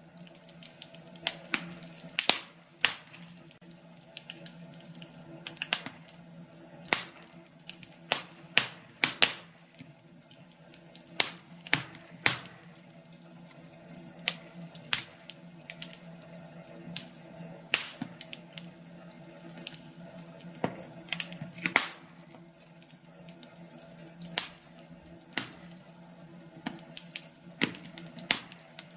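Burning firewood crackling in a fireplace: irregular sharp snaps and pops, some much louder than others, over a faint steady low hum.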